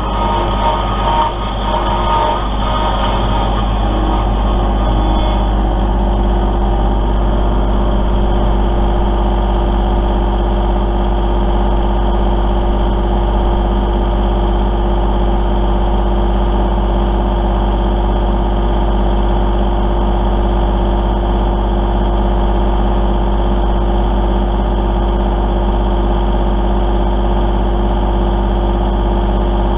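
Kubota L3901 compact tractor's three-cylinder diesel engine running steadily. A few brief high tones and some clatter sound over it in the first few seconds.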